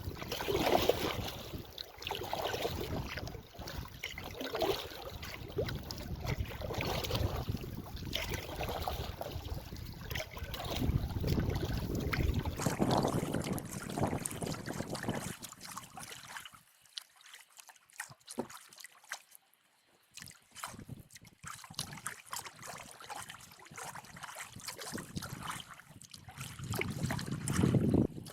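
Canoe paddle strokes with water trickling and splashing off the blade, over wind buffeting the microphone. The sound drops away for a few seconds past the middle, then picks up again.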